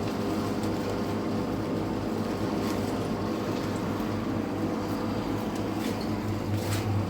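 A steady low mechanical hum, even throughout, with a few faint clicks.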